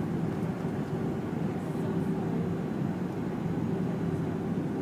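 Steady cabin noise of a Fokker 100 jet airliner heard from inside the cabin: a constant rush of airflow and engine drone from its rear-mounted Rolls-Royce Tay turbofans, with an even low hum underneath.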